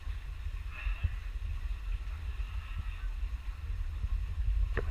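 Wind buffeting the microphone: a steady low rumble, with faint voices about a second in and near the end.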